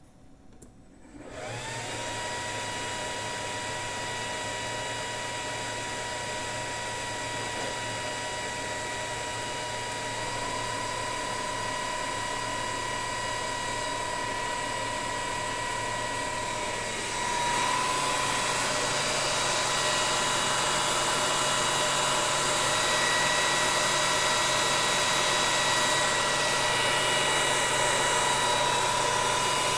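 Electric motor driven by a Lenze 8400 StateLine C frequency inverter on a test run after the inverter's repair. It starts about a second in and ramps up within a second to a steady whine over a whooshing hum, then steps up louder a little past halfway and runs on steadily.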